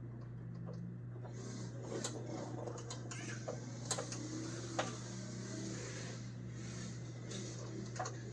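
Hand tools working at a part inside an old pickup's cab: scraping and scratching with a few sharp metal clicks, over a steady low hum.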